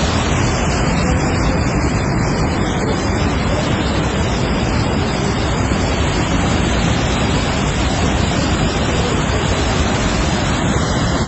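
Steady, loud rushing of fast-flowing water, a rain-swollen mountain stream or river, with no break or change.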